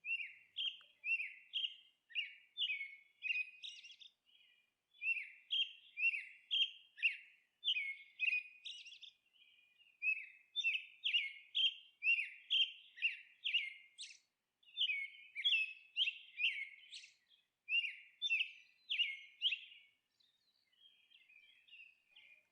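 A small bird chirping: short, quick falling notes, about two or three a second, in runs with brief pauses between them.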